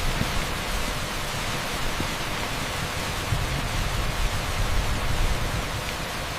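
Torrential rain pouring onto an asphalt street: a dense, steady hiss like pink noise, with an uneven low rumble underneath.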